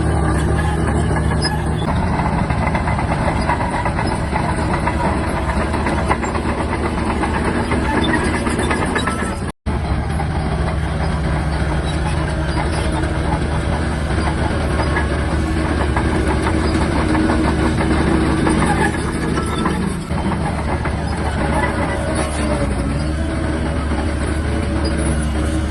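SHANTUI DH17-C3 bulldozer's diesel engine running steadily under load as it works, with a constant low hum. The sound cuts out for an instant about ten seconds in, then carries on the same.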